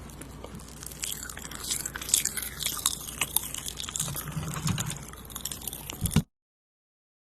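Close-miked ASMR mouth sounds for 'eating' the listener with a spoon: many quick wet clicks and crunchy, chewing-like crackles. They cut off abruptly into dead silence about six seconds in.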